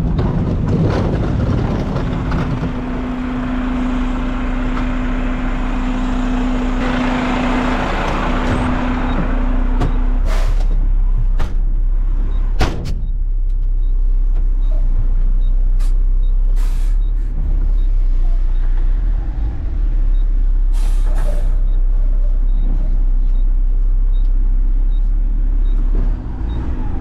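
Front-load garbage truck revved hard with a strong steady hum as its hydraulic arms work a heavy, snow-laden dumpster. The hum cuts off about ten seconds in, leaving the truck running more quietly, with several brief sharp sounds spread through the rest.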